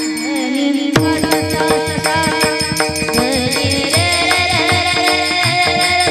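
Devotional kirtan music: a steady drum rhythm under held and gliding melodic tones, with a sharp accent about a second in.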